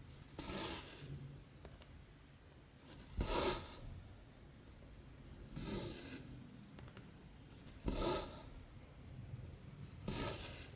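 Cotton embroidery thread being drawn through 14-count cross-stitch fabric, a short rasping swish about every two and a half seconds, five times, as each stitch is pulled through.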